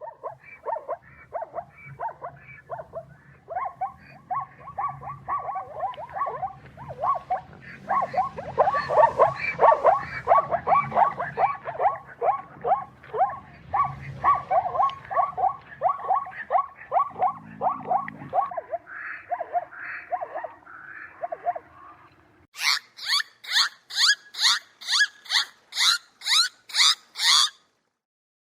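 Zebra barking: a long run of rapid, rhythmic yelping calls, about three to four a second. After a break about 22 seconds in, a different series of shriller calls follows, about two a second.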